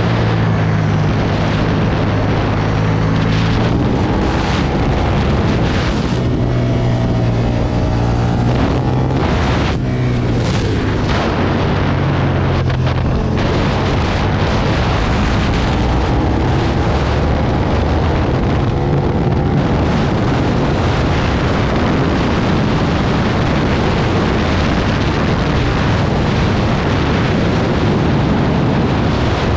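Aprilia Tuono 1000 V-twin engine at track speed, its pitch rising and falling again and again as it is revved through the gears and backed off for corners. Heavy wind noise buffets the microphone throughout.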